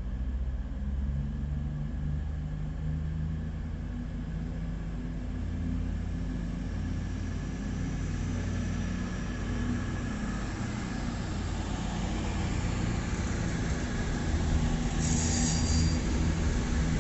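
Diesel train engine running with a low, steady rumble at the platform, growing a little louder in the second half, with a brief high-pitched squeal about fifteen seconds in.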